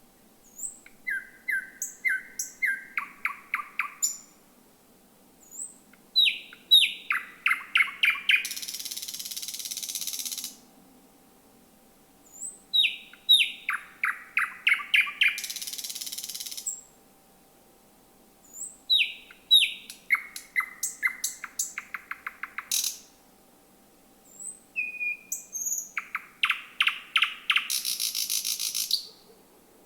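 Thrush nightingale singing: about five song phrases separated by short pauses, each a fast series of repeated sharp notes, several of them ending in a long dry rattle.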